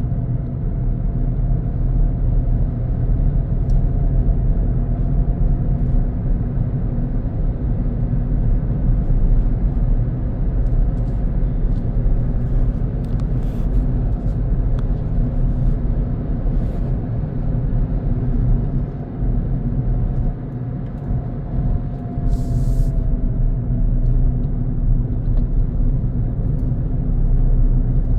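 Car driving along a road: steady engine hum and tyre rumble, with a couple of short hisses about 22 seconds in and near the end.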